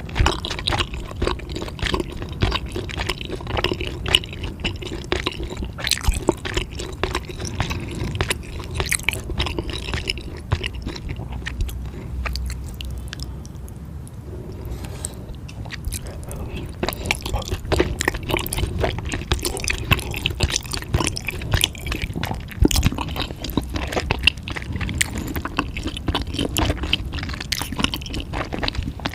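Close-up wet chewing of spicy food: many small sticky clicks and squelches from the mouth. It eases off for a few seconds about halfway through, then picks up again.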